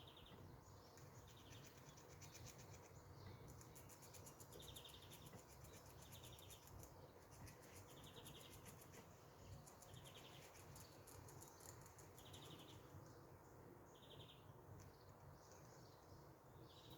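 Faint bird calls: a short buzzy trill repeated every second or two, with a run of fast faint ticking in the middle.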